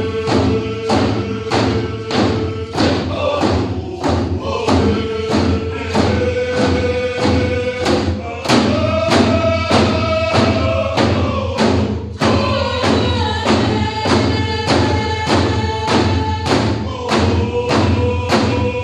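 Pacific Northwest Coast canoe song: a group of voices singing in unison over a steady, even beat of hand drums. The held melody steps up in pitch about eight seconds in and settles back down a few seconds later.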